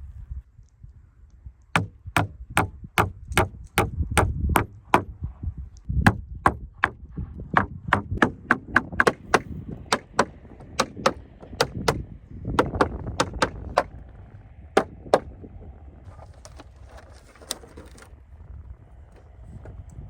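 Hammer driving nails into timber: runs of sharp, ringing blows, about three to four a second, that stop a few seconds before the end.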